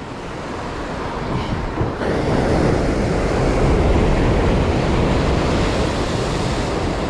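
Sea waves surging and washing against a concrete tetrapod breakwater, swelling louder about two seconds in, with wind rumbling on the microphone.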